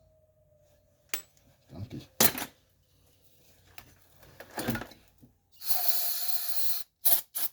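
Small metal parts clinking and knocking against each other on a workbench, with a hiss of about a second near the end and two more sharp clicks after it.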